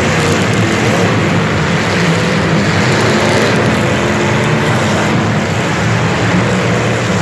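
Motor vehicle engines running loudly and continuously over heavy noise, with a faint pitch that wavers up and down.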